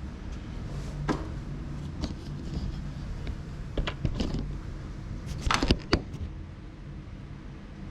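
Light clicks and taps of small parts being handled, with a louder cluster of clicks about five and a half seconds in, over a low steady hum.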